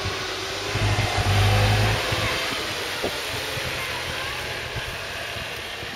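Lamborghini Gallardo Super Trofeo Stradale's V10 engine running as the car drives slowly away over grass. It swells louder about a second in and eases off after about two seconds.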